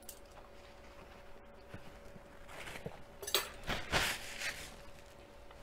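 Close-up mouth sounds of someone chewing a mouthful of beef dipped in soy sauce and honey. A few short, noisy wet bursts and clicks come in the second half.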